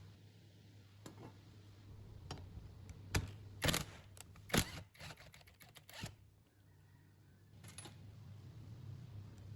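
Small metal parts and hand tools clicking and knocking in an irregular series, thickest in a cluster around the middle, over a low steady hum.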